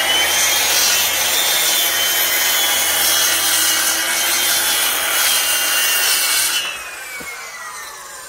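Handheld circular saw cutting through a pine board: the blade is already up to speed and cuts loudly and steadily, then about six and a half seconds in the cut ends and the blade spins down with a falling whine.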